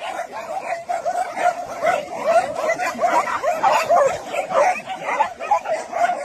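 A pack of many dogs barking and yipping all at once, their short calls overlapping without a break.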